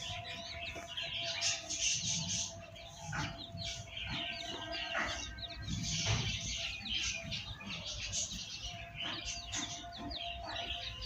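Baby parrots chirping in repeated clusters of rapid, high chirps.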